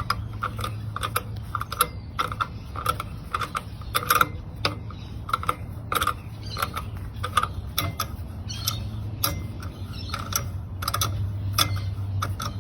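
Hand tool turning out the baffle retaining screw of an Akrapovič exhaust: a run of irregular small metallic clicks, about two or three a second, over a low steady hum.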